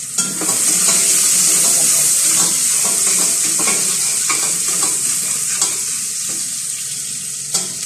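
Chopped garlic and ginger sizzling in hot cooking oil as they are stirred in the pan to sauté, with light clicks and scrapes of the utensil against the pan. The sizzle swells about half a second in and slowly eases off.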